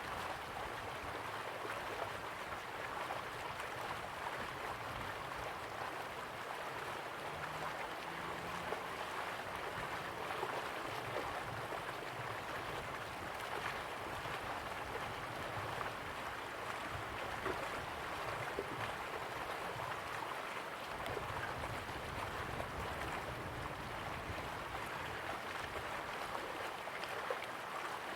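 River water flowing steadily, a continuous rushing with small splashes and gurgles.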